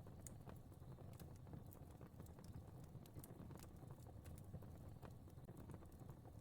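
Fireplace fire burning quietly: irregular faint crackles and pops over a low, steady rumble.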